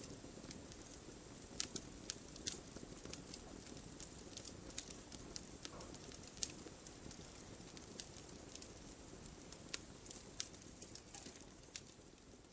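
Wood fire burning: irregular sharp crackles and pops, some in quick clusters, over a faint steady background.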